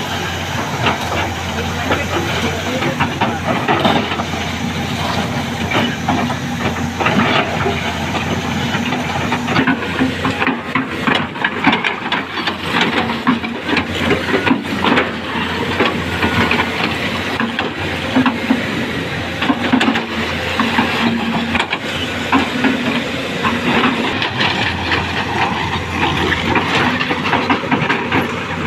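Heavy construction machinery running: a steady low engine drone under a dense noise, with frequent short knocks and rattles.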